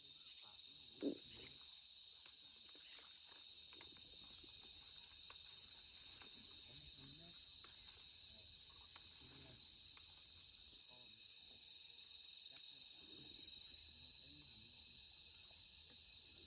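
A steady, high-pitched chorus of insects trills on without a break. A few faint distant voices can be heard under it, and there is one sharp knock about a second in.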